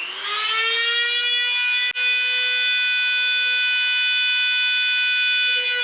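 Dremel rotary tool spinning up to a steady high whine while cutting the plastic front bumper, with a brief dropout about two seconds in.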